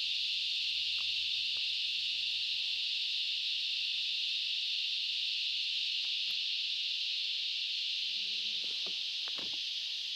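Loud, steady chorus of cicadas, a continuous high-pitched drone, with a few faint knocks near the end.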